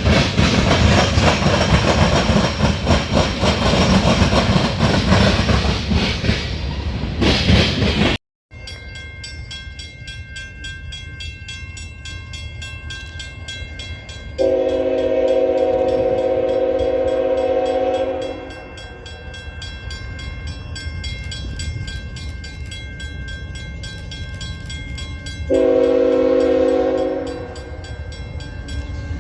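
A train passing close by, a loud rolling rumble of wheels on rail. Then a locomotive's multi-tone air horn sounds a long blast and, several seconds later, a shorter one over the train's steady running.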